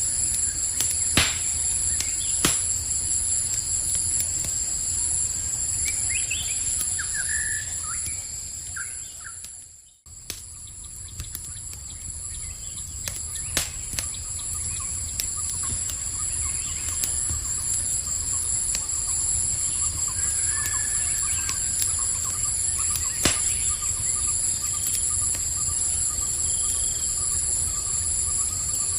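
Campfire crackling with scattered sharp pops, over a steady high chorus of night insects and a low rumble. A few short bird chirps come in, and just before ten seconds in the whole sound fades out briefly and comes back, like a loop joining.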